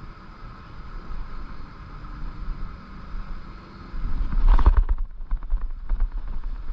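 Steady wind rumble on the microphone. About four seconds in, a sudden loud splash as a bass blows up on the topwater lure, followed by irregular knocks and scuffs from the strike and a failed hook set.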